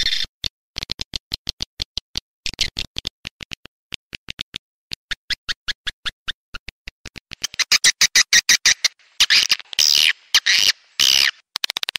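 Swiftlet lure-call recording: rapid trains of sharp clicks, then, from a little past halfway, louder runs of high chirping twitters that stop shortly before the end.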